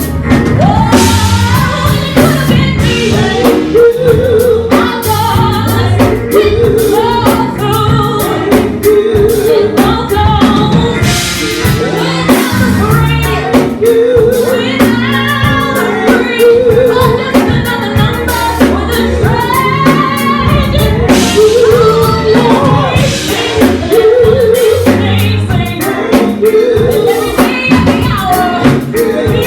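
Live gospel music: singers over a church band with bass and drum kit, the voices in long wavering runs without clear words.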